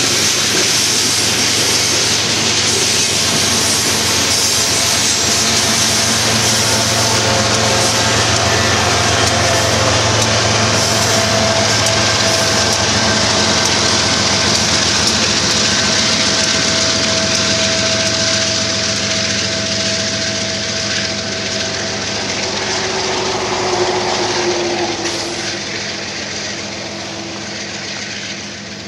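A long BNSF freight train of covered grain hopper cars rolling past with steady wheel-on-rail noise. Past the halfway point, two diesel locomotives at the rear of the train go by, and a tone drops in pitch as they pass. The sound then fades as the train moves away.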